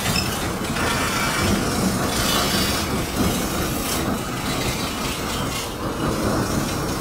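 Freight train of gondola cars rolling past: a steady, noisy rumble and rattle of wheels on the rails.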